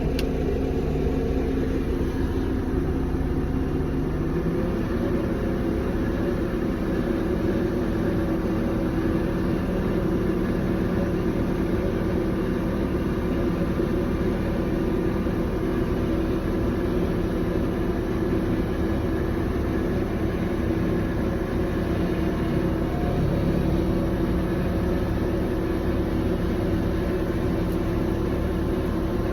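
Forklift engine running steadily as it is driven, heard from the operator's seat; its pitch shifts about four seconds in.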